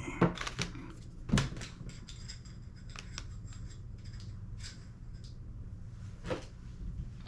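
Airsoft gas blowback rifle parts being handled and fitted together: a few sharp small clicks and knocks, the loudest about a second and a half in and another near the end, over a steady low hum.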